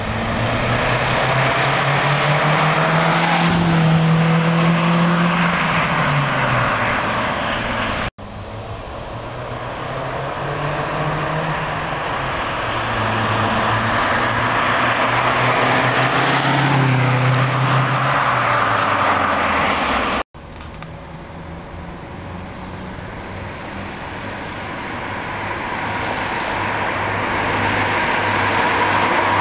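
Opel Zafira OPC's turbocharged four-cylinder engine running through a Milltek resonated exhaust, accelerating and easing off several times, its pitch rising and falling. The sound cuts off abruptly twice where separate recordings are joined.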